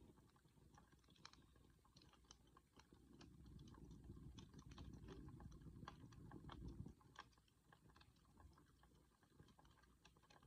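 Wood fire crackling faintly with scattered sharp pops and snaps. A low rumble swells from about three seconds in and cuts off suddenly about seven seconds in.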